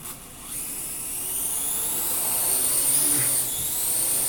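Parrot AR.Drone quadcopter's four electric motors and propellers whining, starting about half a second in and building to a high, steady whine, with a brief dip near the end.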